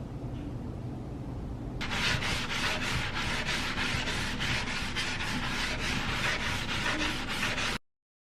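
Rhythmic rubbing or scraping strokes, about three or four a second, starting about two seconds in and cutting off suddenly near the end.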